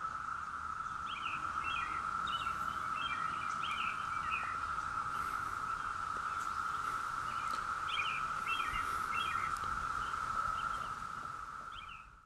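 A chorus of periodical cicadas: a steady, unbroken drone at one pitch, with short bird chirps over it. The sound fades away right at the end.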